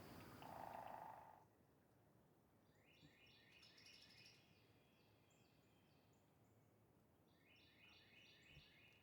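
Faint outdoor ambience. Regular insect chirping and a brief low note fade out in the first second and a half. Two short bursts of quick, high bird song follow, a few seconds apart.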